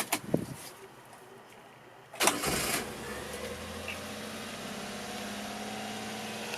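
A few light clicks, then the Honda Acty's 660cc carbureted three-cylinder engine (E07A) starts about two seconds in, catching quickly and settling into a steady idle.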